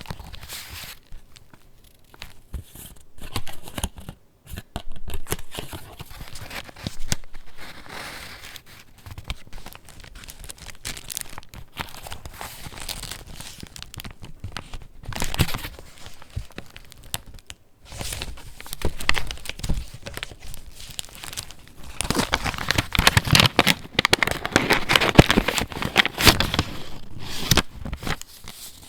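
Paper pages of a handmade junk journal being turned and handled, with irregular rustling and crinkling that grows louder and busier for a few seconds near the end.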